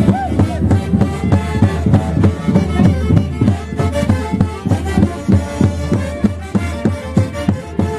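A Huancayo orchestra playing Santiago festival music, with string and wind melody lines over a quick, steady beat.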